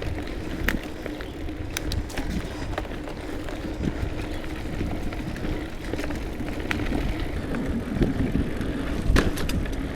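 Mountain bike rolling over dirt singletrack, heard from a GoPro: a steady rush of tyre and wind noise with a faint running hum, broken by scattered sharp clatters and knocks from bumps in the trail. It starts abruptly.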